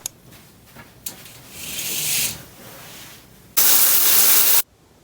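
Hissing noise: a softer hiss swells and fades, then a loud hiss about a second long cuts off suddenly, after a couple of clicks at the start.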